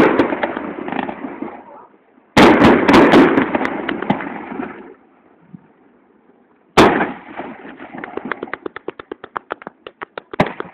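Fireworks display: aerial shells bursting with loud bangs and sharp cracks, each salvo dying away over a couple of seconds. A new salvo goes off about two seconds in, and after a short lull a loud bang about seven seconds in is followed by a rapid string of pops.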